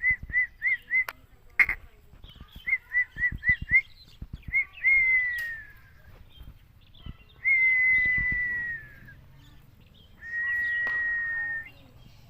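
A person whistling: quick runs of four or five short notes, then long held notes of about a second and a half each, the first ones falling slightly in pitch.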